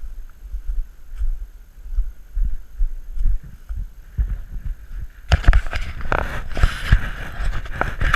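Action camera on a bicycle riding over rough ground, with irregular low bumps and wind on the microphone. About five seconds in comes a loud rushing noise with clattering knocks, lasting about three seconds and stopping abruptly.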